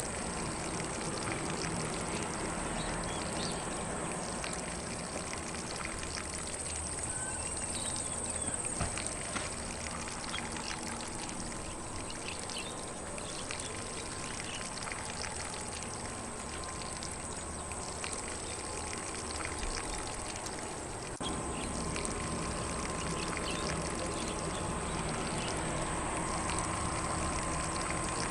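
Lawn sprinkler spraying water over grass in a steady, continuous hiss, with faint birdsong in the background. The spray gets slightly louder about three-quarters of the way through.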